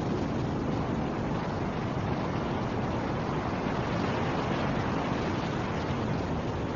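Steady snowstorm wind rushing at a constant level, a dense even noise with a low rumble and no gusts standing out.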